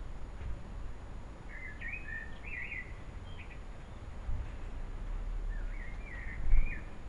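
A small bird chirping in two short runs of quick, wavering notes, one a little after the start and one near the end, over a steady low rumble; a brief louder low rumble comes just before the end.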